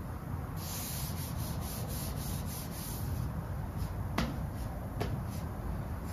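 Quick, evenly repeated rubbing strokes by hand on the van's bodywork for about two and a half seconds, followed by two light clicks, over a steady low rumble.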